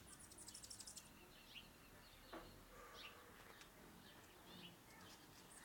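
Faint bird chirps over quiet outdoor background, with a rapid, very high-pitched chittering run in the first second.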